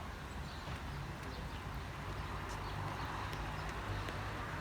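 Steady outdoor background noise with a low hum underneath and no distinct events.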